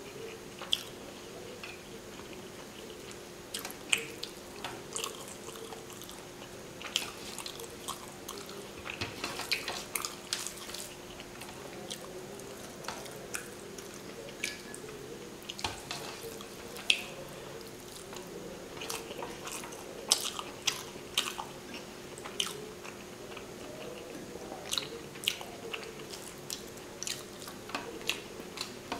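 Close-miked wet chewing and lip smacking of a person eating rice and fish curry by hand: many irregular sharp smacks and clicks, over a faint steady hum.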